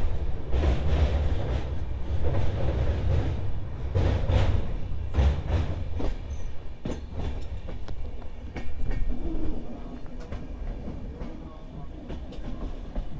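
Passenger train running, heard from aboard a coach: a heavy low rumble with repeated sharp clicks of the wheels over rail joints. The rumble is loudest in the first half and eases somewhat after about six seconds.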